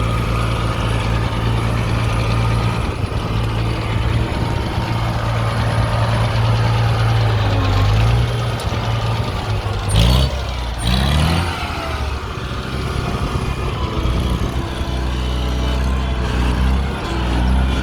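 1960 Farmall 560 tractor's six-cylinder diesel engine running steadily, briefly revved up and let back down a little past halfway before settling back to a steady run.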